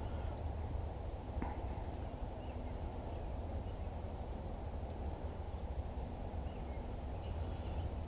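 Outdoor ambience: a steady low rumble with faint high bird chirps around the middle and a single light click about a second and a half in.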